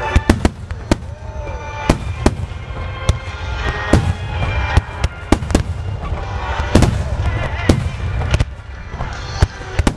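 Aerial firework shells bursting one after another: a string of sharp bangs, about two a second at uneven spacing, over a low rumble. Heard through a Ricoh GR compact camera's built-in microphone, which the uploader finds struggles with the sound.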